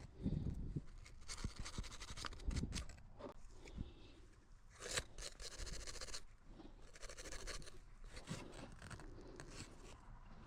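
Faint, irregular scraping with light ticks and clicks as the corroded circuit board of a Ram 1500 RF hub module is worked over and handled.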